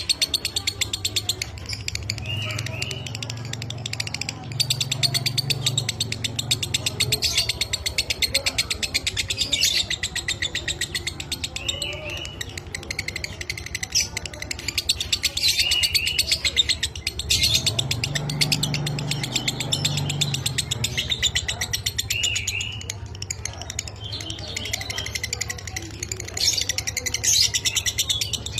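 Lovebird 'ngekek': a long, continuous, rapid chattering trill of high, dry-toned notes, over a steady low hum.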